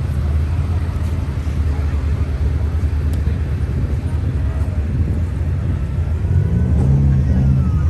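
A car engine running with a steady low rumble. About six and a half seconds in, its pitch rises and falls once.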